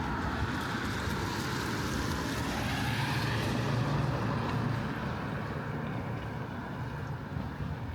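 A car driving past on a wet street: the hiss of its tyres swells, peaks about halfway through and fades as it goes away, over the steady patter of light rain.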